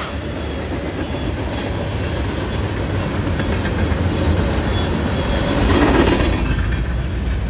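Railroad cars of a passing train rolling by with a steady rumble, getting louder about six seconds in.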